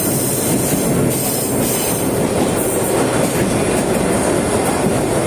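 Sagano Romantic Train sightseeing carriages running along the track: a steady, loud noise of wheels on the rails.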